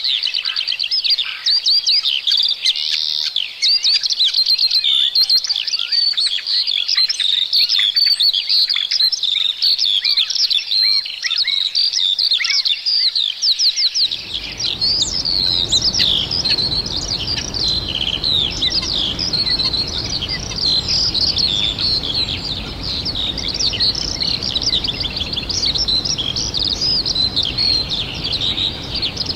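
Many small birds chirping and singing at once, a dense chorus of quick high notes and trills. About halfway through, a steady low rumble of background noise starts suddenly beneath the birdsong.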